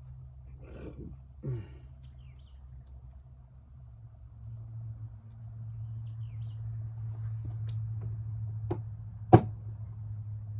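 A steady low hum with a few light clicks, and one sharp knock about nine seconds in.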